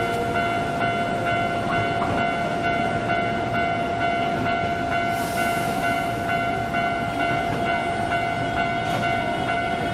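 Electric train at a station: a steady mechanical whine of several tones over a constant rumble, with a brief hiss about five seconds in.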